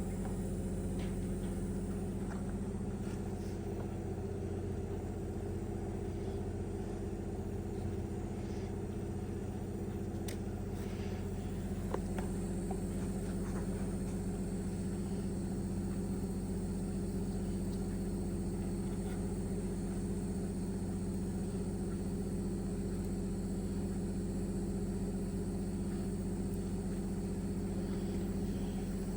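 A steady low mechanical hum at an even pitch and level, with a few faint clicks.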